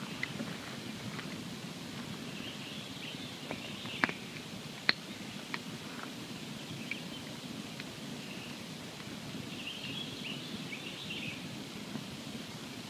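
Wood campfire burning with a steady low rushing and a few sharp crackling pops, the two loudest about four and five seconds in.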